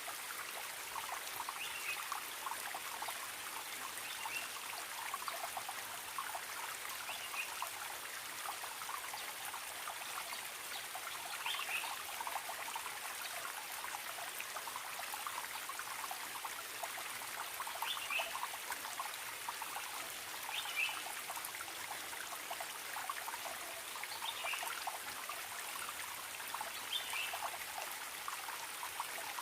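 Forest stream trickling steadily, with a bird giving short high calls every few seconds.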